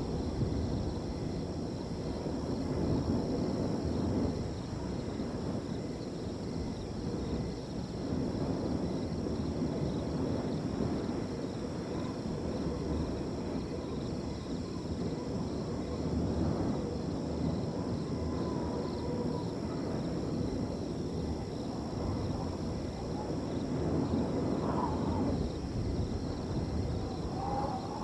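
Wind blowing across a field as a low, surging rush, with a steady high trilling of crickets underneath. A few faint short calls come in near the end.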